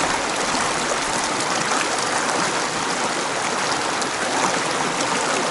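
Mountain stream water rushing steadily over rocks, a continuous even hiss with no breaks.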